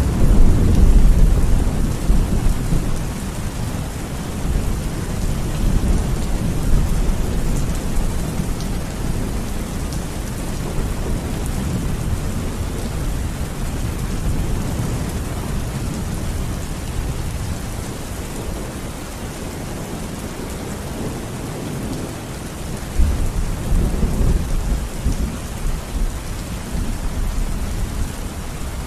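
Steady heavy rainfall during a thunderstorm, with a deep rumble of thunder at the start and another rumble about 23 seconds in.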